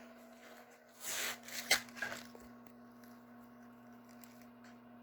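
Handling noise of the recording phone being set down: a brief rub about a second in, then a sharp knock and a couple of smaller clicks.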